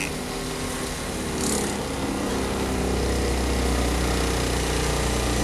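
RV freshwater pump running steadily as it pressurizes the newly plumbed water lines, its hum getting louder about two seconds in as it takes up load.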